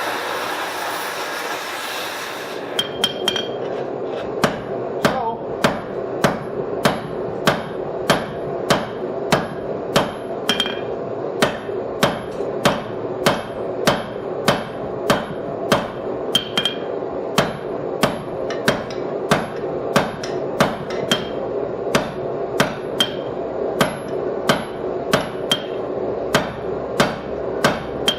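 Blacksmith's hand hammer striking hot steel stock on an anvil in a steady rhythm, about one and a half blows a second, some blows with a brief ringing note. A steady rushing noise comes before the hammering starts a couple of seconds in, and a steady hum runs under the blows.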